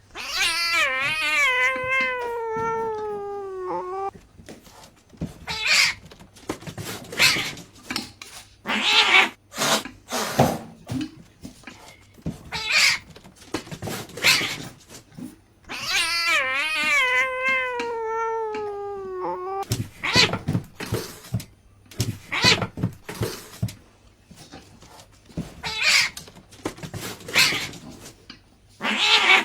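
Domestic cat yowling: two long, wavering calls that slowly fall in pitch, one at the start and an almost identical one about 16 seconds in. Between them come many short meows and noises.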